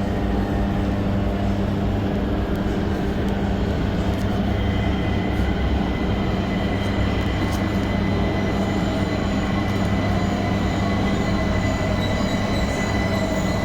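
Metro train running, a steady low rumble of wheels and motors with a high whine that comes in about four seconds in.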